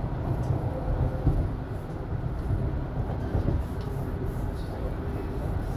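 Toronto subway Line 1 train running between stations: a steady low rumble of wheels on rail and running gear.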